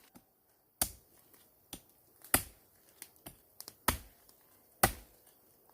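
A run of sharp, irregular knocks or chopping blows, about eight over five seconds, with the loudest coming roughly once a second.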